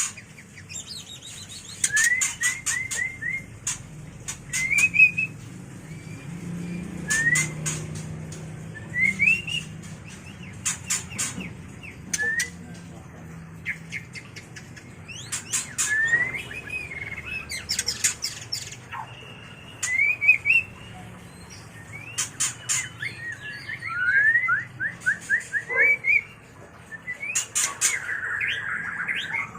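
White-rumped shama (murai batu) in breeding condition, singing short whistled phrases and quick series of rising notes, broken up by sharp clicking calls.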